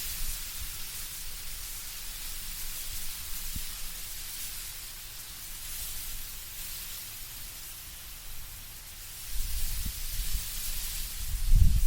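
Wind moving through autumn trees with leaves rustling: a steady hiss that swells and eases. Near the end a low, gusty rumble of wind comes in and becomes the loudest sound.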